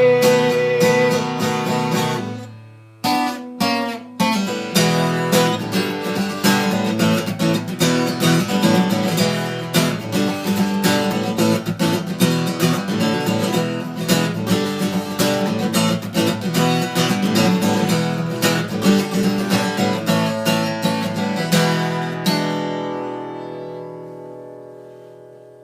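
Acoustic guitar strummed, breaking off briefly about two to three seconds in, then strummed steadily until a last chord is left to ring and fade away near the end.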